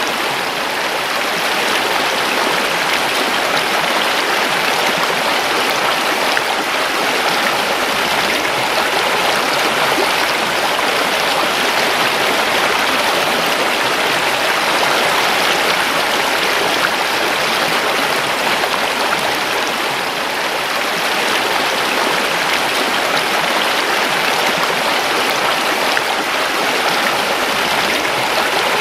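A river flowing steadily, its running water making a continuous, even rush.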